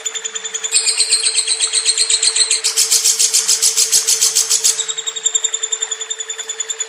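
Lovebird giving a long, fast, high-pitched chattering trill, an even run of about ten notes a second, louder from about a second in until about five seconds in. A steady low hum runs under it.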